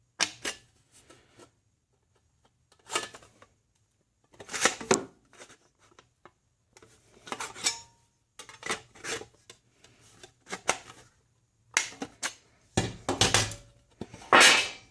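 Thin sheet metal being handled and worked with hand tools: irregular clanks, rattles and scrapes of metal, in about eight separate bursts, the loudest near the end.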